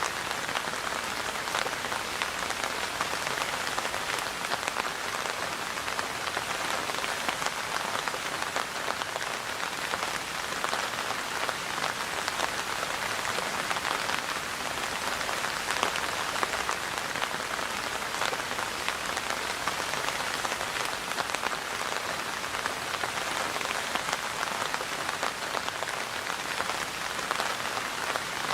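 Steady rain falling, a dense patter of drops on surfaces that holds an even level throughout.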